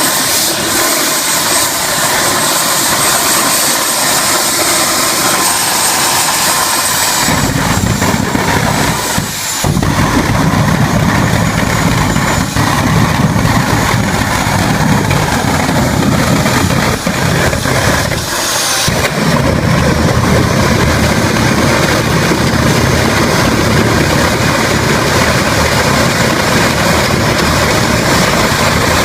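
Jet engine running loud and steady under test, with a high whine over a rushing noise. About seven seconds in a deep roar joins; it cuts out for a moment twice and then carries on.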